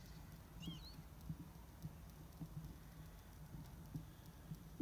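Quiet outdoor ambience with a low wind rumble and scattered faint taps, and a short high bird chirp under a second in.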